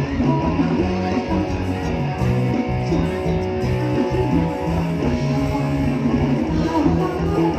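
Live band playing an instrumental passage with guitar over a bass line that steps between notes and a steady beat.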